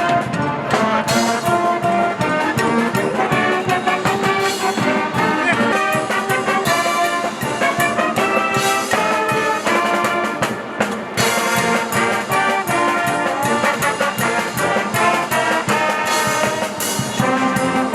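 Brass-heavy band music with a steady beat, playing continuously.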